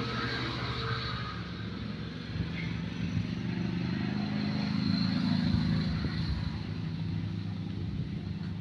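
A motor engine running steadily, swelling louder about four to six seconds in, then easing back.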